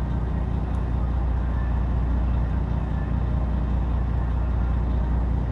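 Fishing boat's engine running steadily, a constant low hum under a noisy wash.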